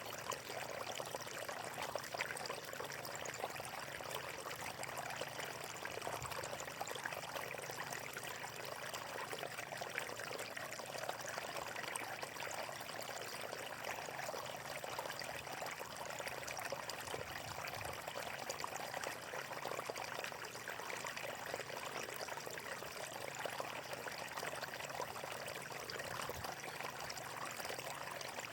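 Water flowing steadily in a stream, a continuous trickling and splashing rush with no pauses.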